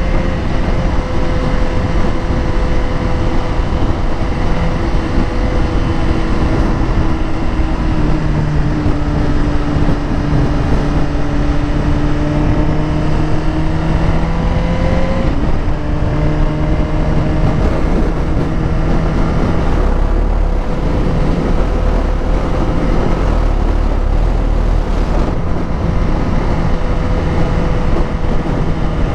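Suzuki GSX-R motorcycle engine running while riding, with wind rush; its pitch sags and rises again about halfway through as the rider eases off and comes back on the throttle.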